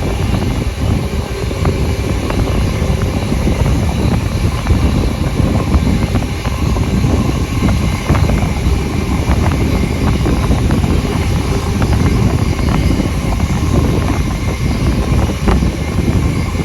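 Steady rumble and rush of a steam-hauled passenger train on the move, heard from on board: wheels on the rails with wind noise, and faint irregular clicks over the top.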